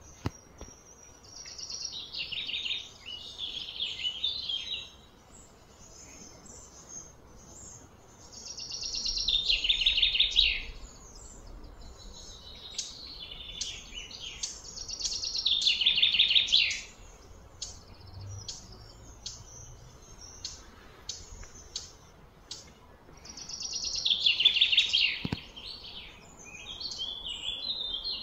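A bird singing outdoors: a high-pitched phrase of about two seconds, sliding downward, repeated four times at intervals of roughly six seconds, with short separate chirps in between.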